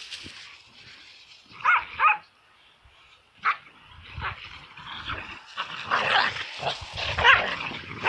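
Dog barking: two quick high barks a little under two seconds in and another single bark about a second later, then a busier run of yips and barks over rustling noise in the last few seconds.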